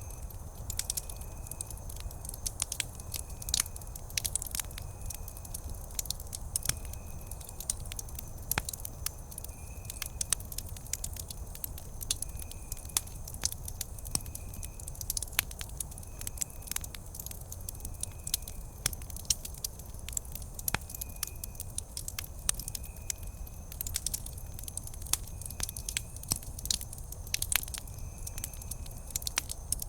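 Wood campfire crackling, with frequent sharp pops and snaps over a low steady rumble of the flames. A faint high-pitched trill recurs about once a second.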